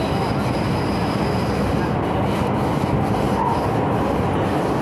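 Cabin noise of an MTR M-Train electric multiple unit running: a steady rumble of wheels and running gear, with a faint high whine over the first two seconds.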